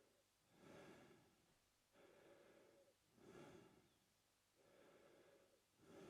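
Faint, slow mouth breathing by a man, steady in-and-out breaths of about one full breath every two and a half seconds.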